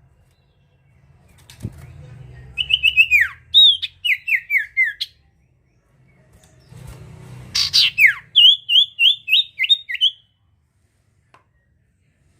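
A sirtu (common iora) singing two loud bursts of quick, repeated, down-slurred whistled notes, a few seconds apart.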